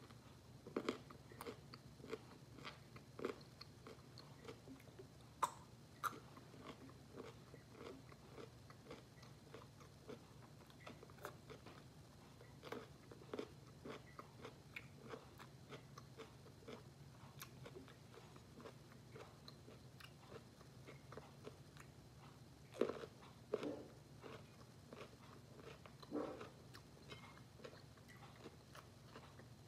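A person biting and chewing pickled gherkins: wet crunches and chewing, with a few sharper, louder bites standing out. A faint steady low hum runs underneath.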